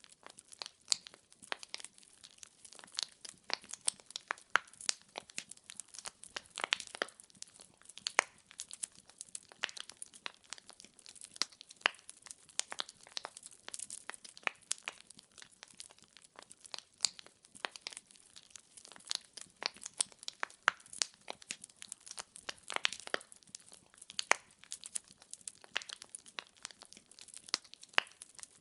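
Wood fire crackling: burning logs popping and snapping in many quick, irregular cracks over a soft background hiss.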